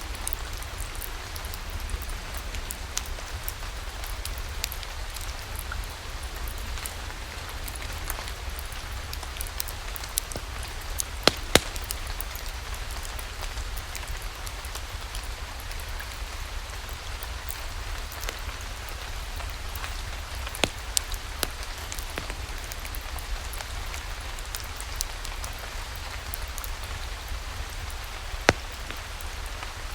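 Steady rain falling, mixed with the scattered crackles and pops of a wood fire in a fireplace. A few louder pops come about 11 seconds in, around 21 seconds in, and near the end.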